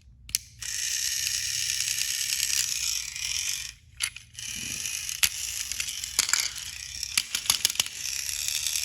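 Small battery-powered toy train engine's motor and plastic gears whirring as it runs, cutting out briefly twice, with a scatter of clicks and rattles in the second half; it is running a little poorly.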